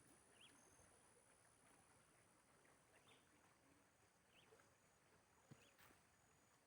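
Near silence: faint rural outdoor ambience with a few short, faint chirps scattered through it.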